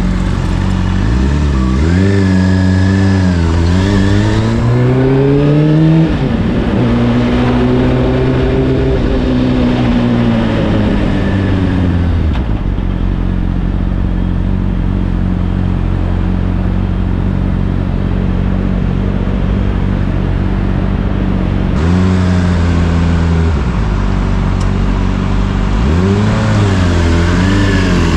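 Honda CBR600RR inline-four through an Akrapovic exhaust: the revs climb, break at a gear change and climb again, then fall away as the bike slows. It then idles steadily for about ten seconds, and near the end the revs rise again as it pulls away.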